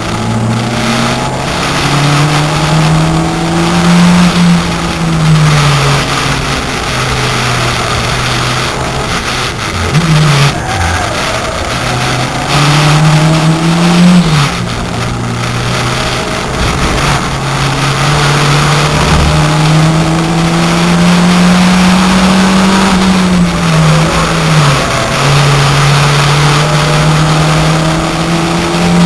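VW Corrado 1.8T's turbocharged four-cylinder engine at race pace, heard from inside the cabin. The engine note climbs under full throttle for a few seconds at a time and drops back sharply at each gear change or lift, about five times over.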